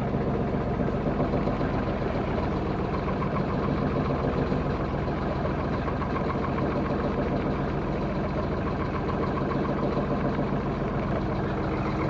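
A small sailing yacht's auxiliary engine running steadily at a constant speed, an even pulsing note with no change in revs.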